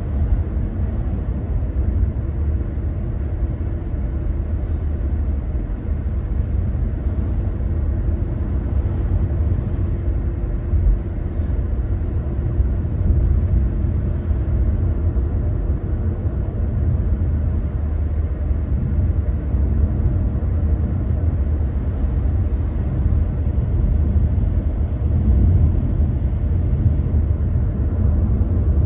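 A car driving, with a steady low rumble of engine and road noise. Two brief faint ticks come about five and eleven seconds in.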